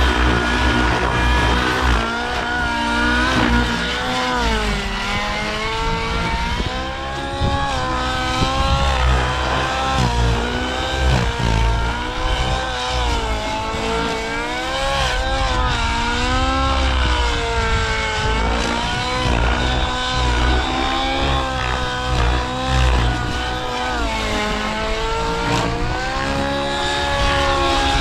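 The O.S. 1.05 HZ-R two-stroke glow engine and rotors of a SAB Goblin Raw 700 nitro RC helicopter running in flight, their pitch rising and falling continually. The pilot judges the mid-range needle to be still set rich.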